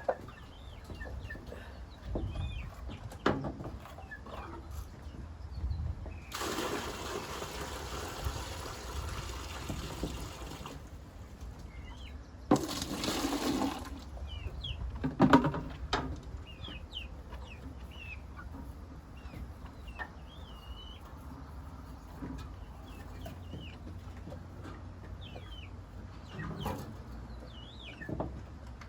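Chickens clucking and young chicks peeping in short chirps throughout. Water rushes twice, a long pour about six seconds in and a shorter one around twelve seconds, with a few knocks of buckets between.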